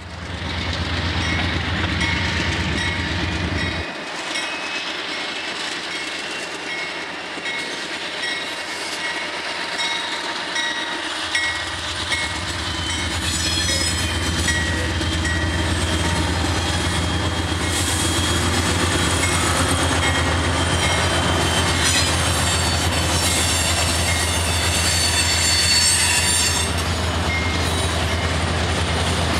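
A Norfolk Southern freight train passing, led by a GE C40-9W diesel locomotive: a loud low engine drone swells as the locomotive goes by, about a third of the way in. It is followed by freight cars clattering over the rail joints with squealing wheels.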